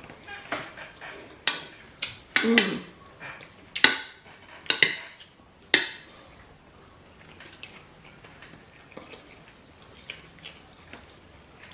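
Cutlery clinking and scraping on plates of rice and stew during eating, in scattered sharp clicks. They are busiest and loudest in the first half and sparser after about six seconds, with a short voiced sound about two and a half seconds in.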